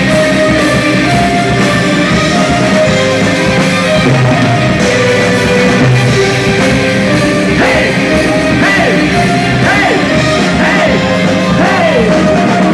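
Live rock band playing an instrumental break, with drums, bass and held melodic notes; in the second half a lead line slides up and down in pitch several times.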